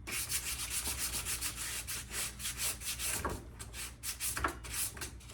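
Sandpaper rubbed back and forth by hand on an old rusty axe head: quick, even scratchy strokes, about four or five a second.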